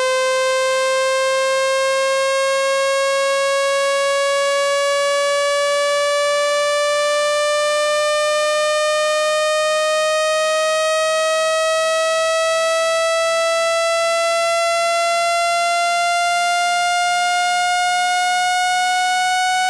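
Electronic water-eject tone for clearing a wet phone speaker: one steady, buzzy tone rising slowly and evenly in pitch, at constant loudness.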